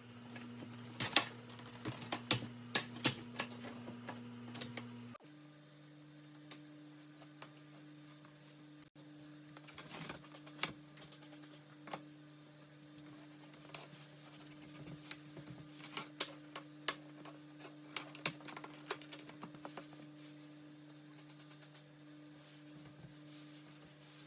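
Light clicks, taps and clatter of small household items being picked up and set down, irregular and in busy runs, over a steady low hum.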